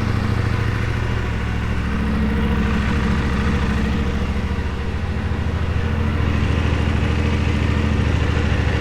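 2023 CFMoto 450SS parallel-twin engine idling steadily just after an oil change, with a little lifter tick that is nothing major.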